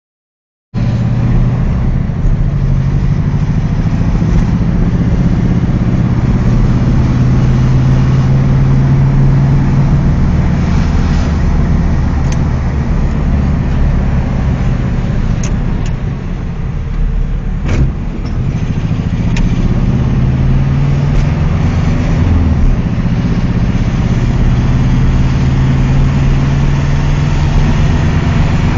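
Air-cooled flat-four engine of a 1992 Volkswagen Vocho (Beetle), heard from inside the car while driving, its pitch rising under acceleration and dropping back several times as it goes through the gears. It cuts in just under a second in, and there is one sharp click partway through, where the engine eases off.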